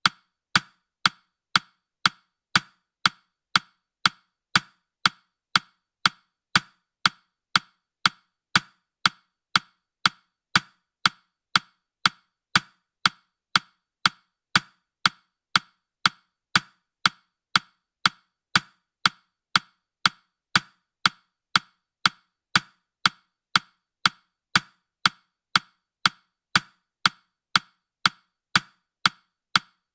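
Countdown timer's ticking sound effect: short, sharp, wood-block-like ticks at a perfectly even two a second.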